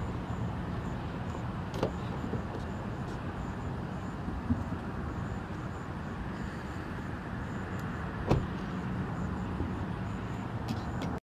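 Steady low hum of an idling vehicle engine with a faint even rush, broken by a few short knocks; the sound cuts off abruptly near the end.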